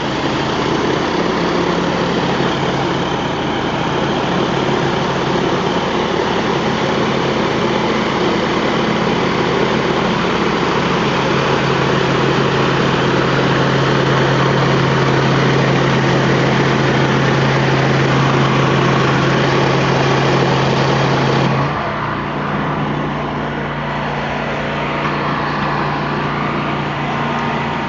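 Pressure washer rig engine running steadily under the loud hiss of the high-pressure spray on concrete. About 21 seconds in, the spray cuts off and the engine keeps running.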